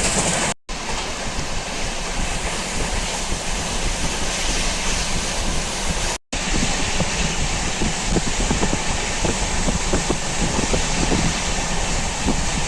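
Running noise of a moving train heard at the window: a steady rush of wind and rumble, with wheel-on-rail knocking growing in the second half. The sound cuts out briefly twice, under a second in and about six seconds in.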